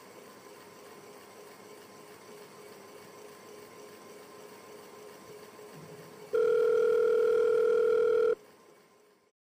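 Faint steady hum, then about six seconds in a loud, steady electronic beep tone sounds for about two seconds and cuts off, after which the sound fades out to silence.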